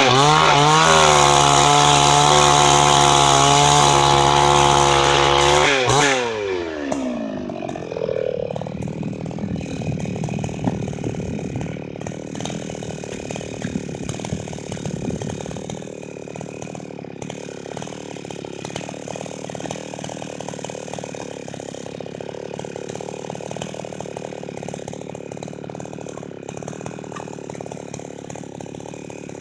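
Two-stroke chainsaw running at full throttle. About six seconds in the revs fall away quickly, and it settles to a quieter, lower idle.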